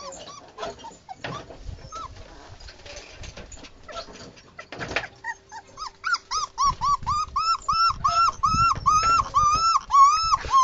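Young puppy whimpering and crying: a few soft whines over faint rustling, then, about halfway in, a quick run of short, high-pitched cries, each rising and falling, about three a second and growing louder. It is the distress crying of a puppy not yet settled in a new sleeping place.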